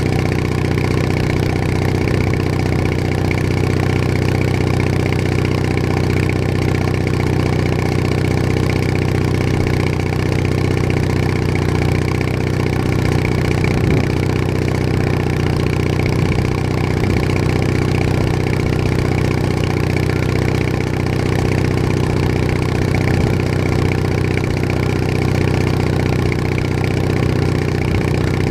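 Bolens HT20 garden tractor engine running steadily at an even speed while the tractor drives along.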